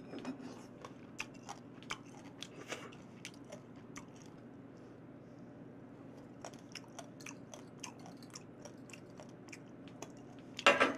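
Close-up chewing and crunching of grape pulp scraped from a garlic press, with small scattered clicks and a louder clatter near the end.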